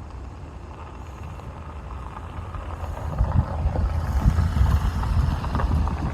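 A car driving past, its engine and tyre noise growing louder from about three seconds in.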